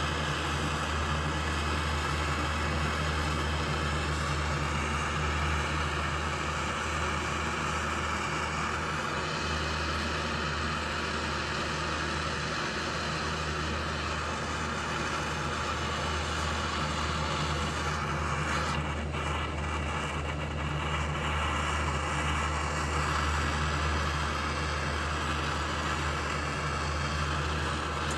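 Metal-melting furnace running steadily while heating copper: a constant roar over a low hum.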